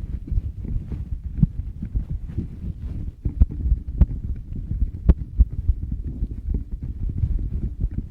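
Fingers rubbing and tapping directly on a Tascam recorder's microphones: a dense run of low, muffled thumps and rubbing, with a few sharper taps.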